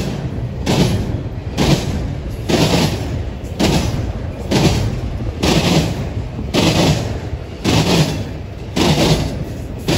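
Wheels of a passing eastbound intermodal freight train slamming over rail joints: a heavy clatter about once a second over a steady rumble of rolling wheels.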